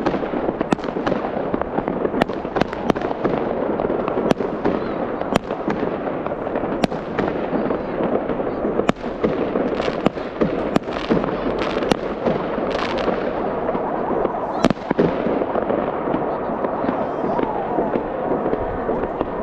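Fireworks display: a dense, continuous crackle with many sharp bangs, about one or two a second.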